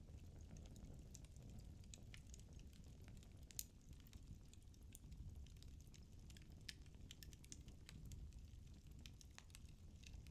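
Wood burning in a fireplace, crackling faintly: scattered sharp pops over a low, soft rumble of the flames, with one louder pop about three and a half seconds in.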